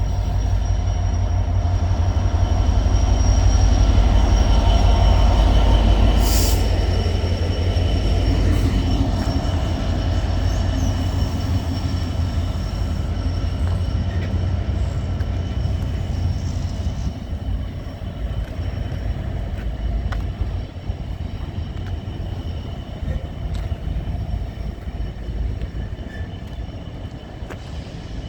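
A train running past on the tracks: a heavy rumble that is loudest in the first several seconds and then slowly fades as it goes by, with a thin, steady high-pitched tone from the wheels and rails above it.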